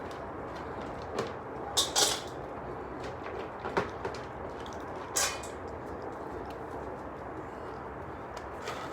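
About five short knocks and clatters, the loudest about two seconds in and again about five seconds in, over a steady low background noise: objects being handled while cat food and water bowls are set out.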